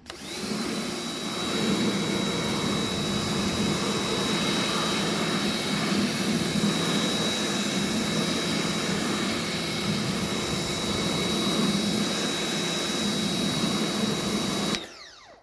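A motor-driven machine running steadily with a loud rushing hiss and a constant high whine; it switches off near the end and winds down with a falling pitch.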